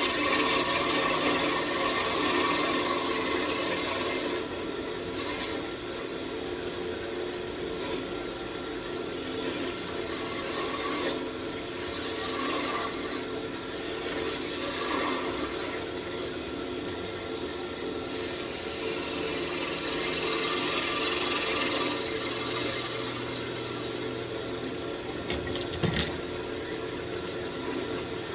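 Wood lathe running while a walnut wand is shaped on it, the tool scraping the spinning wood in passes that swell and fade over a steady motor hum. Two sharp clicks come near the end.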